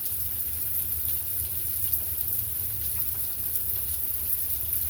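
Steady rain falling, an even hiss with faint scattered drop ticks over a low, steady rumble.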